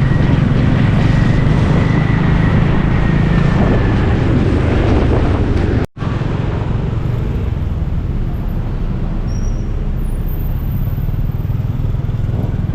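Steady motor-vehicle and road traffic noise with a heavy low rumble. It breaks off abruptly about six seconds in and picks up again a little quieter.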